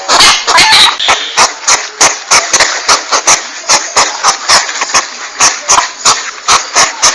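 Porcupine call played as a hunting lure: an uneven run of sharp clicks, about three a second, over a steady hiss.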